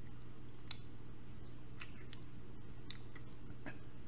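Close-miked mouth sounds of someone eating watermelon: a few scattered wet clicks and smacks, about one a second, over a steady low hum.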